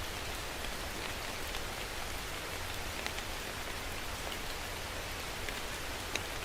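Steady rain falling, with the patter of individual drops on a hard surface ticking through the even hiss and a low rumble underneath.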